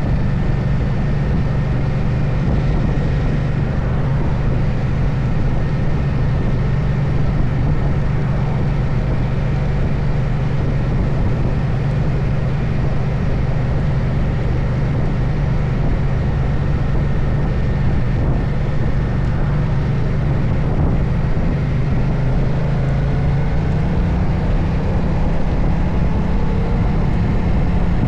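Moto Guzzi Stelvio's transverse V-twin engine running at a steady cruise, heard on board with wind and road noise over it. The engine note rises slightly about three-quarters of the way through.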